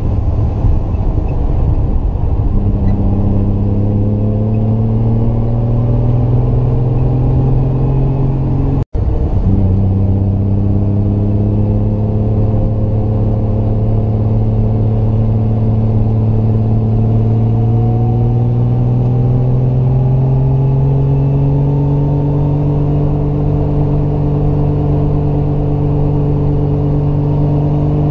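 Triumph GT6 Mk2's two-litre straight-six engine pulling under load uphill, its note climbing slowly and steadily as the revs build. The sound cuts out for a split second about nine seconds in, then picks up again slightly lower and keeps rising.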